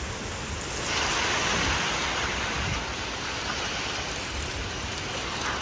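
Heavy thunderstorm rain and strong wind gusts making a steady rushing noise, with a low buffeting rumble, that swells about a second in.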